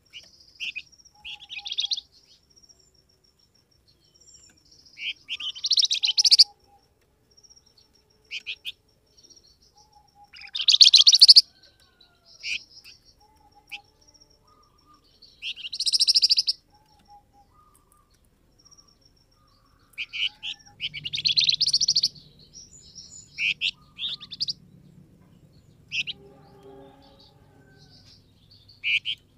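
Flamboyan songbird calling: bursts of sharp, high chirps and short song phrases every few seconds, with a thin high trill running between them. This is the flamboyan call used to draw other birds into answering.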